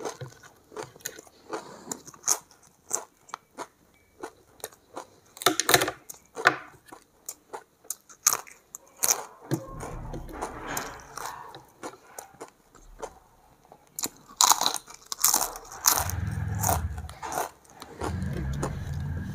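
Close-miked eating: sharp crunches of crisp papad being bitten and chewed, mixed with wet chewing and mouth clicks. A low hum joins in about ten seconds in and again near the end.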